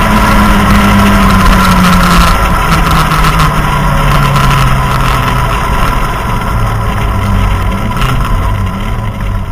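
Citroën Saxo rally car's engine heard from inside the cabin, its note dropping in pitch over the first few seconds with a steady high whine above it. The sound then gradually gets quieter.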